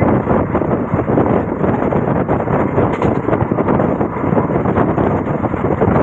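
Passenger train running at speed, heard from an open coach doorway: a steady, loud rumble and rattle of the coaches and wheels on the track, with air rushing past.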